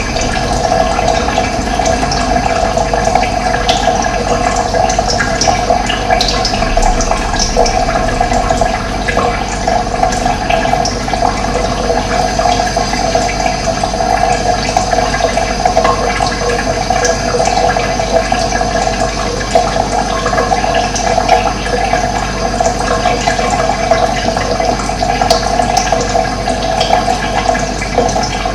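Running water flowing steadily, with occasional faint bird chirps.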